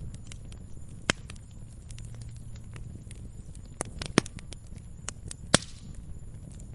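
Wood fire crackling in a fireplace: a steady scatter of small snaps over a low rumble of flame, with a few louder pops, the loudest about five and a half seconds in, followed by a brief hiss.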